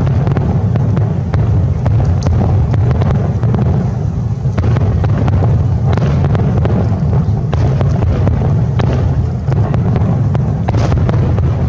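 Fireworks display in a dense barrage: a continuous deep rumble of overlapping booms with many sharp bangs and crackles on top.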